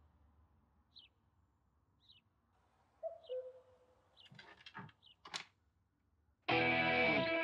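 Birds chirping, short high chirps about once a second, with a lower drawn-out call in the middle. A few rustles and knocks follow, and about a second before the end guitar music comes in loudly.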